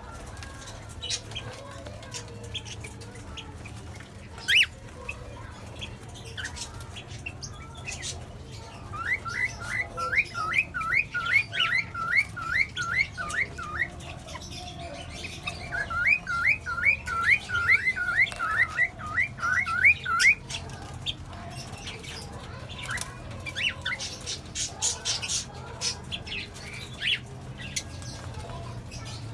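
Pet parrots squawking: two runs of about a dozen quick repeated calls, about three a second, about nine seconds in and again about sixteen seconds in, with scattered short sharp chirps in between.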